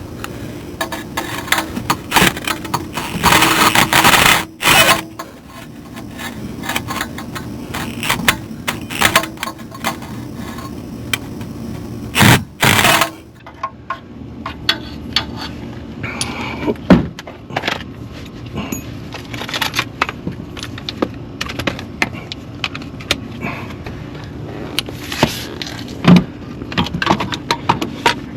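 Metal hand tools clinking, rattling and scraping in many short knocks while a starter is fitted under a car, with two loud rushes of noise, one about three seconds in and one near the middle.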